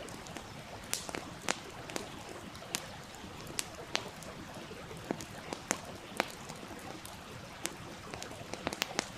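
Campfire crackling, with irregular sharp pops, over the steady rush of a stream.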